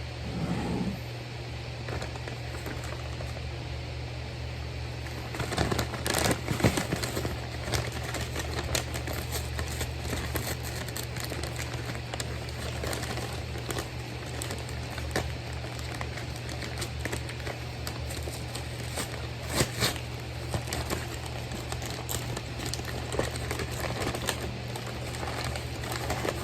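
Fast-food paper wrappers and packaging crinkling and rustling as they are handled, with irregular clicks and taps and a few louder rustles.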